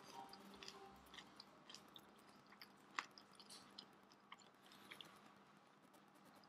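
Faint chewing with many small clicking mouth sounds, and one sharper click about three seconds in.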